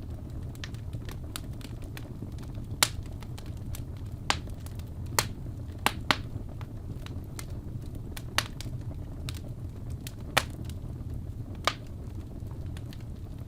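Wood fire crackling in a fireplace: sharp, irregular pops and snaps over a steady low rumble, with the loudest pops around three, six and ten seconds in.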